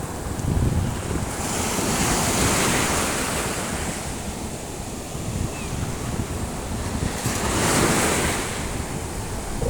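Sea waves surging and hissing, two swells building about a second and a half in and again about seven seconds in, with wind rumbling on the microphone.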